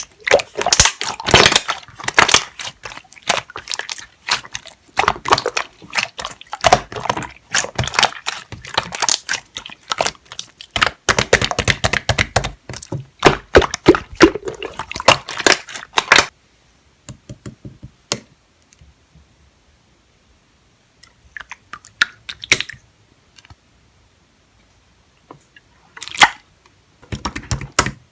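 Clear slime being squished and pressed by hand, making a dense run of wet clicks and pops for about sixteen seconds. After that only scattered clicks, with another short run of clicks near the end.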